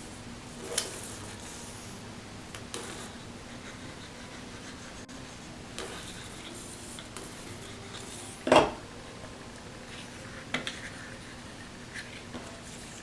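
Paper and craft tools handled at a table: light rubbing with a few scattered clicks and taps, the loudest a sharp knock about eight and a half seconds in, over a faint steady hum.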